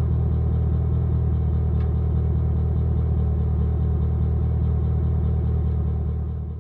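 Camaro ZL1's supercharged V8 idling with a deep, steady rumble, easing off slightly near the end.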